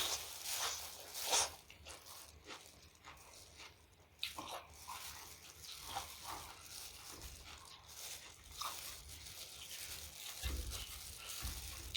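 Close-up eating sounds: chewing with irregular short, wet clicks and smacks of the mouth and food.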